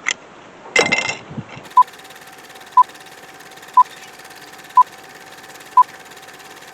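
A brief metallic clatter about a second in, then short electronic beeps, all at the same pitch and exactly one second apart, six in all.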